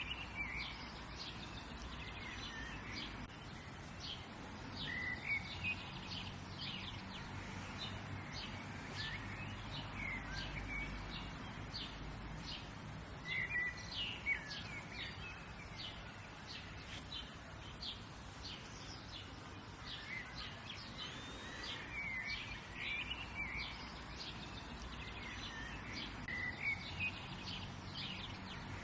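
Songbirds chirping and singing, many short calls throughout over a steady low background hum and hiss.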